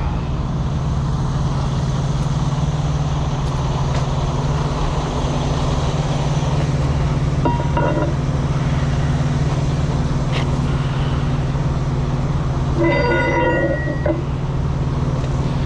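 Engine running steadily at idle, a continuous low hum. A short tone sounds about halfway through, and a vehicle horn honks for about a second near the end.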